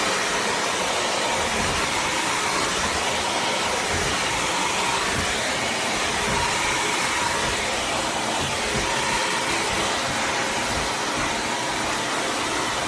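Bissell CrossWave HydroSteam Pet wet-dry vacuum's motor running steadily, a continuous rushing noise with a faint whine in it.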